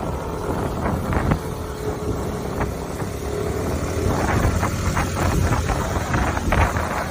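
A vehicle driving on the road, with a steady low rumble, wind buffeting the microphone and scattered knocks and rattles.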